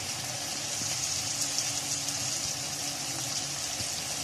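Onions and tomatoes sizzling steadily in hot oil in a kadhai, with a few faint clicks of a spoon against the pan and plate.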